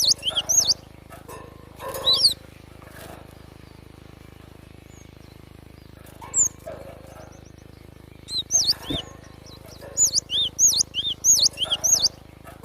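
Gelatik batu (cinereous tit) calling in quick runs of short arched whistled notes: a burst at the start, a pause, then a longer run from about eight and a half seconds in. A single low thump near nine seconds.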